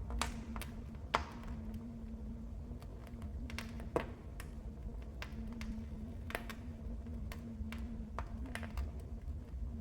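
Wood fire burning in a fireplace: steady low rumble of the flames with scattered sharp crackles and pops, the loudest a little after the start, about a second in, and about four seconds in.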